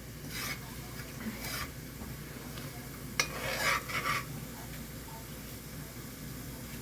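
Curry frying with onions, garlic and pimento in a pot, a steady low sizzle. A spoon scrapes and stirs through it a few times, with one sharp clink against the pot a little after three seconds in.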